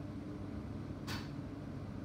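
Steady rain, an even low rush without a break, with a brief sharp hiss about a second in.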